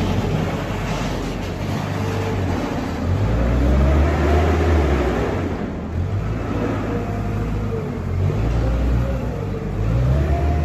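An engine running loud and steady, its low note stepping up and down as it is revved and eased off.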